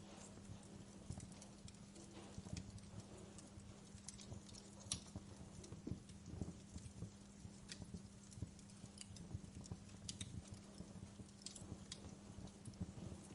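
Wood fire crackling in a fireplace: faint, irregular snaps and pops of burning logs over a low rumble, with a steady low hum underneath.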